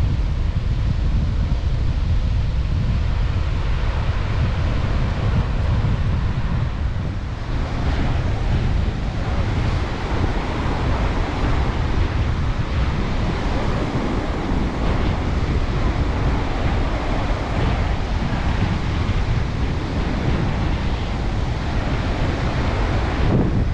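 Strong sea wind buffeting the microphone with a low rumble, over the hiss of Baltic Sea surf breaking; the surf hiss grows fuller about seven seconds in.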